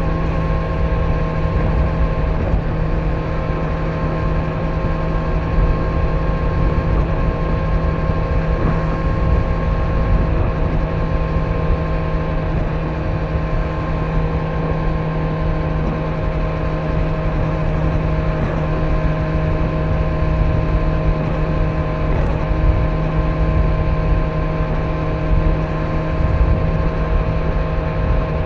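Kawasaki Z900's inline-four engine with stock exhaust cruising at a steady speed, holding one even note with no revving, over a constant rumble of road and wind noise.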